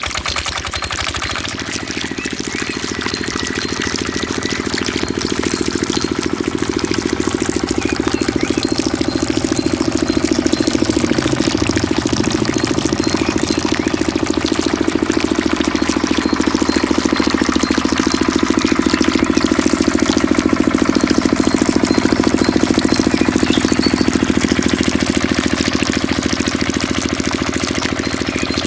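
Mini diesel engine of a water pump running steadily, its level building slightly over the first few seconds and then holding even.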